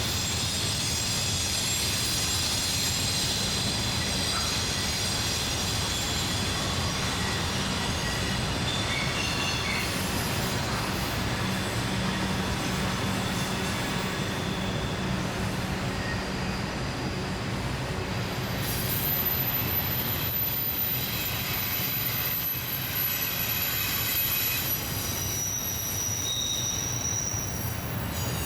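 A long Norfolk Southern intermodal freight train's wheels squealing as the cars round a sharp curve: rigid axles with straight wheels scrub against the curved rail. Several high, steady squeal tones come and go as different wheels pass, over the steady rumble of the rolling train.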